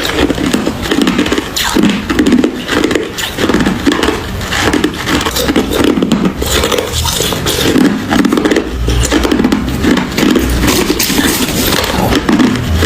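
Hard ice being chewed and crunched close to the microphone, a steady rhythm of about two crunching chews a second with crackling snaps.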